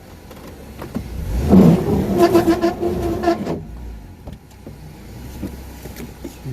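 Jeep Gladiator pickup's engine revving hard for about two seconds, starting about a second and a half in, then dropping back to a low rumble, as the truck tries to drive off a rock it is stuck on.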